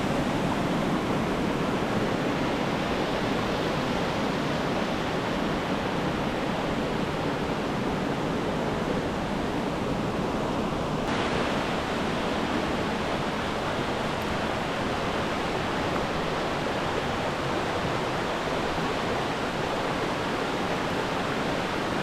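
Waterfall rushing close by: a steady, dense noise of falling water, its higher hiss turning suddenly brighter about halfway through.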